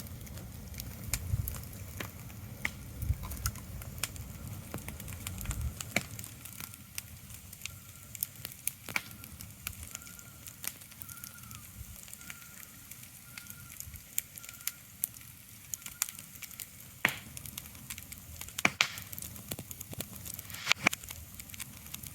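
Irregular sharp crackles and pops over a soft hiss, with a low rumble during the first six seconds that then drops away.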